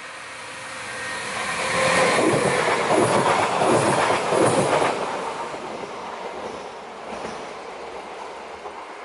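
Electric multiple-unit passenger train passing close by: a steady whine on the approach, then a loud rush and clatter of wheels over the rails from about two to five seconds in, fading as it goes away.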